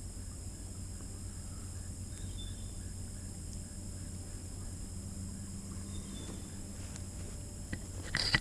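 Quiet riverside ambience: a steady high-pitched insect drone over a low hum, with two faint short chirps and a few light clicks and knocks near the end.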